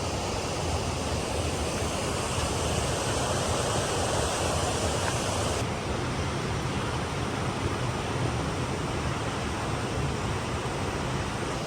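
Steady rushing of a waterfall's falling water, a dense even hiss; about halfway through the sound turns duller as its high end drops away.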